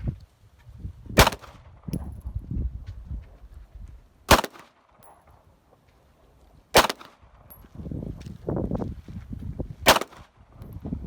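Four single pistol shots, slow aimed fire about two and a half to three seconds apart, with heavy wind buffeting the microphone between shots.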